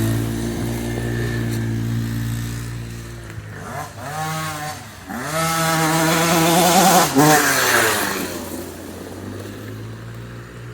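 Dirt bike engine running steadily, then revved up and back down twice around the middle, and fading toward the end.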